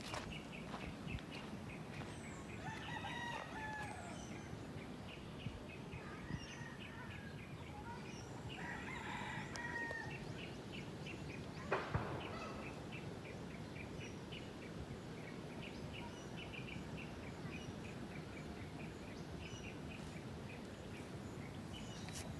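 Rooster crowing twice, about three seconds in and again around nine seconds, over a steady fast chirping. One sharp knock comes around the middle.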